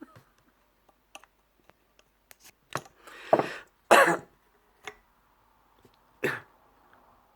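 A man coughing and clearing his throat in a few short bursts, the loudest about four seconds in.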